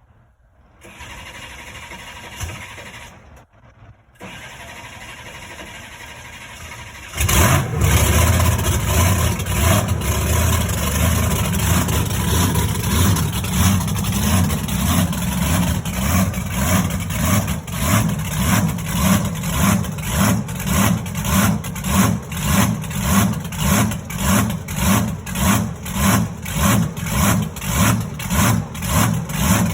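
Monster truck engine, quiet at first, then coming in loud about seven seconds in and running on with a steady pulse about twice a second.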